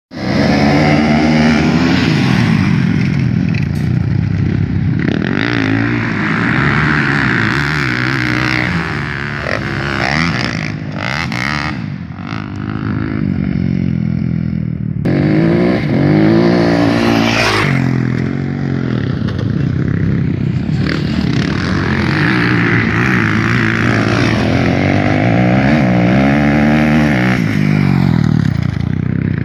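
Motocross motorcycle engines running hard, their pitch rising and falling over and over as the bikes accelerate and back off.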